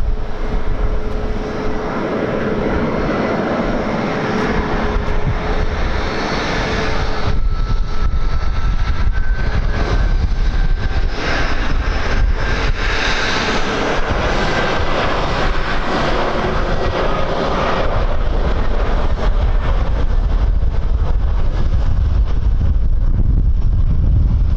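Airliner jet engines running as a plane passes, a dense noise with a steady whine that shifts in pitch partway through. Strong wind rumble on the microphone underneath, growing toward the end.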